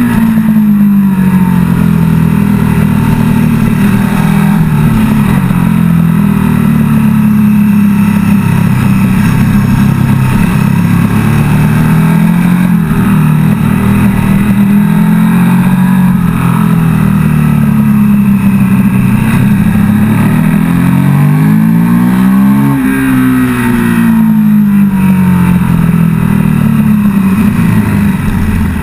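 KTM 1290 Super Duke GT's V-twin engine under hard riding, its note rising and falling repeatedly as it accelerates and slows. It climbs to its highest pitch about 22 seconds in, then drops away.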